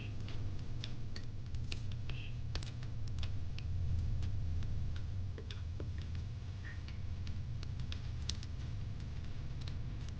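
Wood fire crackling: irregular sharp pops and snaps, a few each second, over a steady low rumble of the burning fire.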